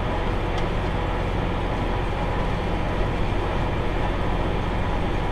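Tractor pulling a round baler, running steadily with a constant engine drone.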